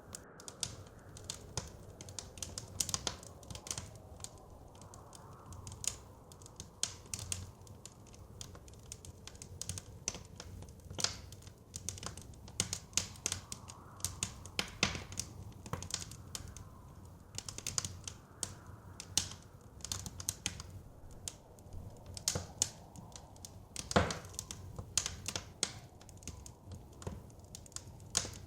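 Wood fire crackling, with irregular sharp pops several times a second and a louder snap about 24 seconds in, over a low steady rumble of wind.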